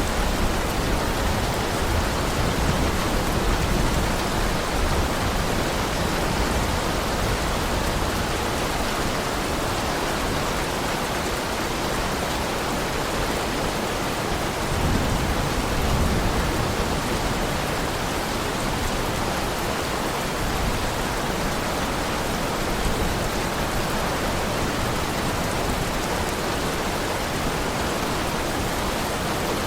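Heavy rain falling steadily in a dense, even hiss. A low rumble swells briefly about halfway through.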